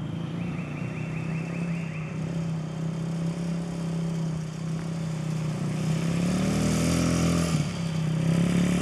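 2007 Honda 50cc dirt bike's small single-cylinder four-stroke engine running steadily through mud, growing louder over the last few seconds.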